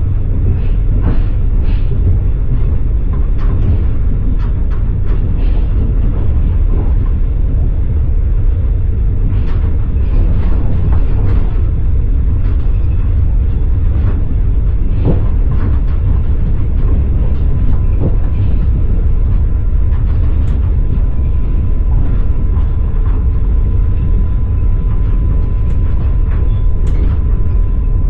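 Passenger train rolling along, heard from inside the carriage: a steady heavy rumble with irregular clicks and knocks of the wheels over the rails. A thin steady whine comes in about two-thirds of the way through.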